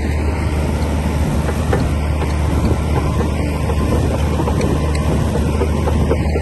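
Komatsu D60P bulldozer's diesel engine running steadily under work, with scattered clanks from the machine.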